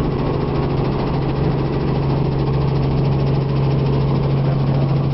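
Helicopter running: a loud, steady drone with a strong constant low hum.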